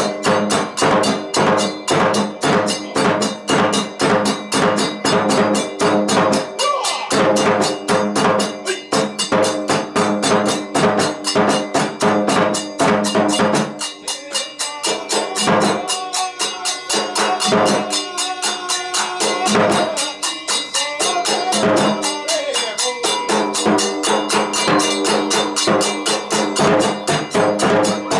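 Kagura ensemble music: drums and other percussion struck in a quick, steady rhythm of about four strokes a second over sustained pitched tones.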